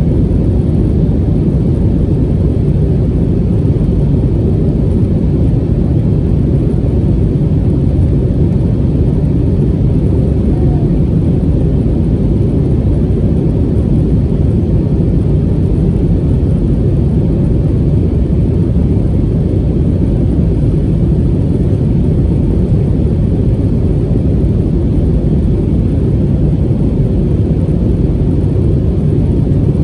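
Steady, even low rumble of engine and airflow noise inside the passenger cabin of an Airbus A320neo airliner powered by CFM LEAP-1A engines, with no change in pitch or loudness.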